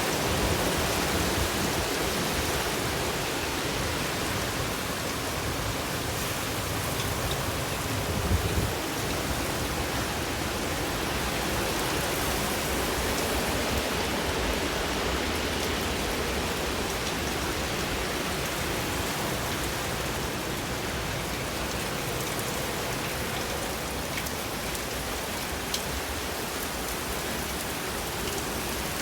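Heavy rain from a severe thunderstorm, a steady hiss of downpour with storm wind. About eight seconds in there is a brief low rumbling gust.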